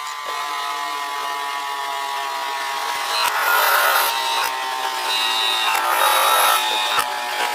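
Metal lathe running, with steady whining tones, scraping and scattered sharp clicks.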